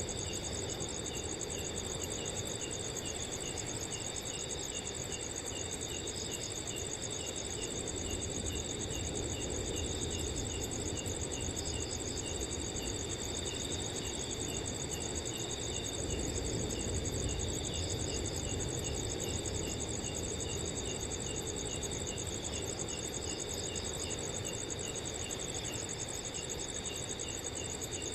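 Several crickets chirping at once: a steady high-pitched trill layered with a regular chirp repeating about three times a second. Under them is a soft low wind rush that swells slightly midway.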